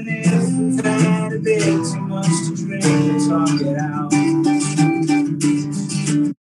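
Live band playing an instrumental passage between sung lines, led by strummed guitar chords.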